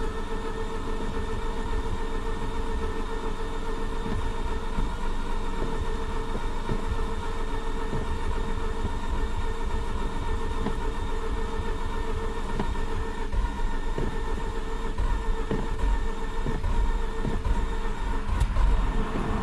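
A 2004 Mazda RX-8's 13B rotary engine is cranked steadily on its starter for a long stretch without starting. It almost seems to be trying to catch but never fires up: a hard-starting rotary that won't start.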